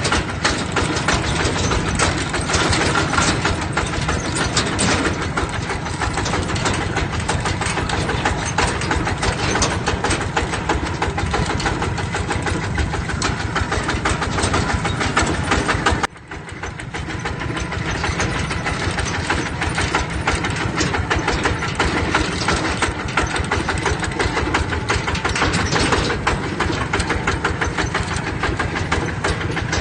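Single-cylinder diesel engine of a mini two-wheel tractor running with a rapid, steady knock. About halfway through the sound drops out abruptly and comes back over a couple of seconds.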